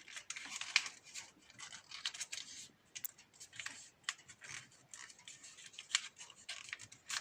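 A sheet of A4 paper being folded and creased by hand, rustling and crackling in many short, irregular crinkles.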